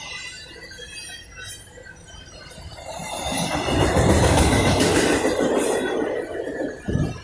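Double-stack intermodal freight cars rolling past on their wheels, a steady rail rumble with clicking wheel clatter that grows much louder about three seconds in.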